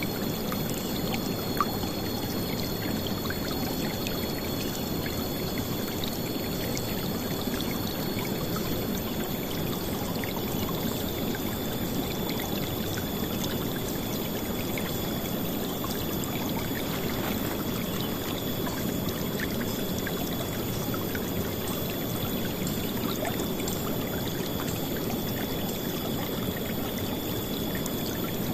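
River water flowing and splashing in a steady, unbroken rush, loudest in its low range.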